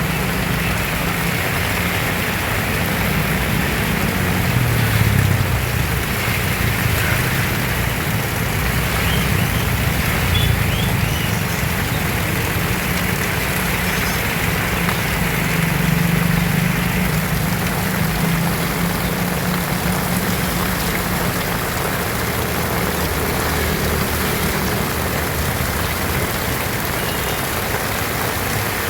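Heavy rain falling steadily and hard, with a low, uneven rumble underneath.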